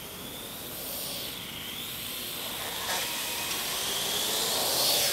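Parrot AR.Drone quadcopters hovering, their electric rotors giving a high-pitched whir whose pitch rises and falls as they are steered. It grows steadily louder.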